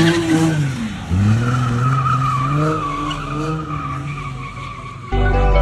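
A car engine revs hard, falls off and revs up again while its tires squeal, as at a drifting or donut stunt. About five seconds in this cuts off abruptly and loud music with heavy bass starts.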